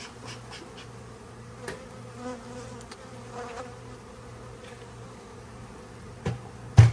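A honeybee colony buzzing with a steady hum. Two sharp knocks come near the end, the second one the loudest.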